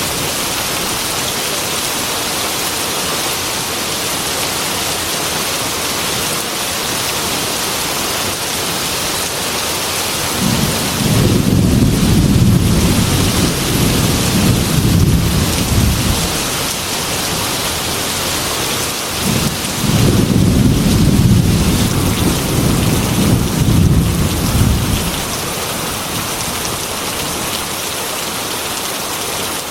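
Heavy rain beating steadily on a glass window, with two rolls of thunder rumbling over it: the first about ten seconds in and lasting some five seconds, the second a few seconds later and about as long.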